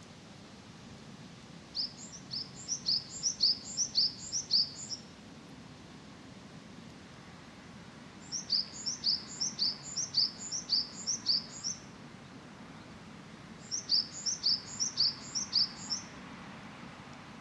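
A small songbird singing in three bursts, each a quick run of high, repeated notes at about four a second that swell in loudness, over a faint steady low background rumble.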